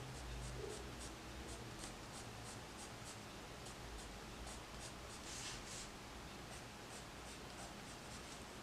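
Soft, creamy Holbein colored pencil stroking on paper: a faint run of short, quick scratches, a few a second, as it shades.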